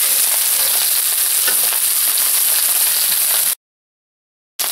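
Steady sizzling of marinated chicken breasts on a cast-iron grill pan and garlic fried rice frying in a skillet, with a spatula scraping as the rice is stirred. The sound drops out to dead silence for about a second near the end, then the sizzling returns.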